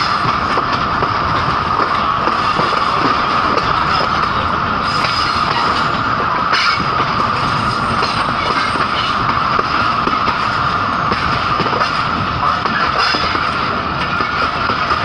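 Passenger train running on the rails: a steady rumble and rattle of wheels and carriage with a constant high ringing whine from the wheels, and a couple of brief clacks.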